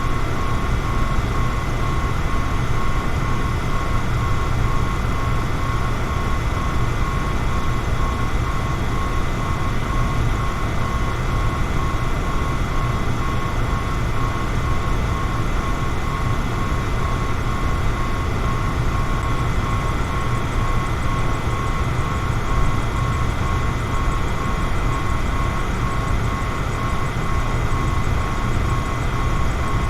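Electric fan running steadily: an even rush of air with a low hum and a faint steady high whine.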